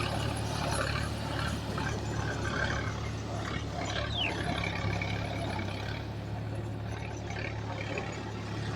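Diesel engine of a backhoe loader or tractor running steadily at low revs. A short, high, falling note sounds once about four seconds in.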